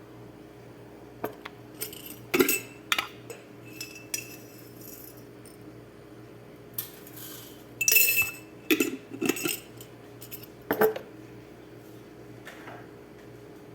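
Kitchen utensils and dishes clinking and clattering: scattered sharp knocks, with a busier cluster about eight to nine seconds in, over a faint steady hum.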